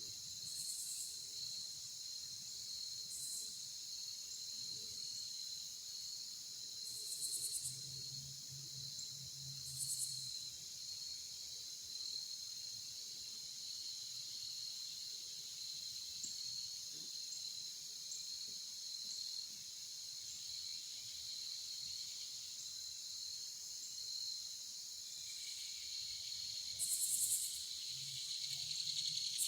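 Steady high-pitched chorus of insects, with short, higher buzzy bursts a few times over it.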